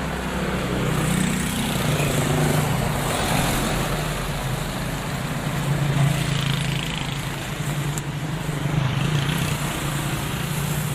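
A motor vehicle's engine running steadily: a low hum with a hiss of noise over it.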